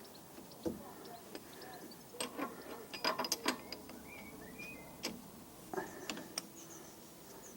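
Sharp metal clicks and clinks of a brake-caliper wind-back tool being fitted against a rear caliper piston, with a quick cluster of clicks in the middle.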